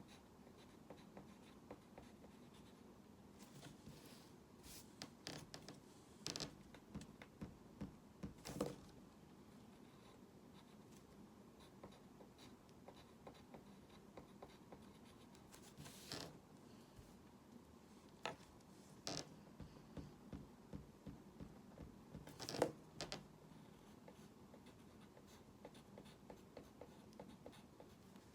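Faint, irregular scratching and tapping of a drawing tool making strokes, in scattered clusters separated by quiet stretches.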